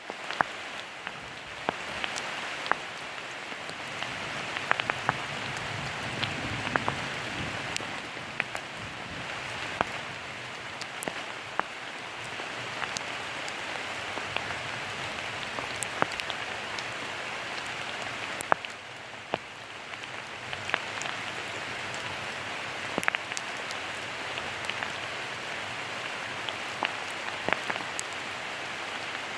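Steady rain falling, a continuous hiss with many sharp, separate drop ticks landing close by.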